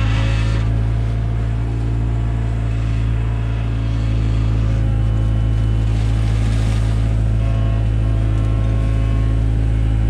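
Takeuchi TB175 excavator's diesel engine running steadily with a deep, even hum.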